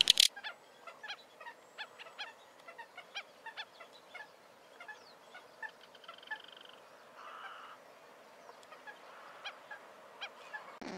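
Wattled jacana calling: a long series of short, sharp call notes, about three or four a second, over a faint background hiss. A brief loud sound comes at the very start.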